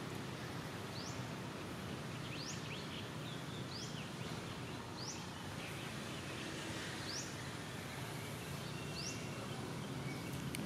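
A bird repeating a short, high, rising chirp about six times at uneven gaps of one to two seconds, over a steady background hiss.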